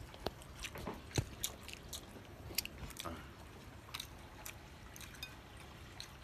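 Mouth sounds of people chewing a fried purple yam cake, with scattered short clicks and smacks.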